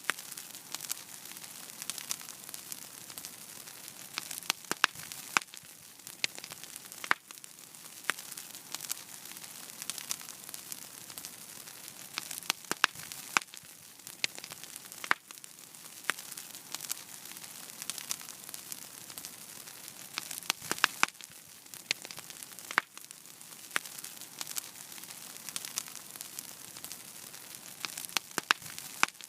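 Wood fire in a fireplace crackling and hissing, with frequent sharp irregular pops over a steady hiss.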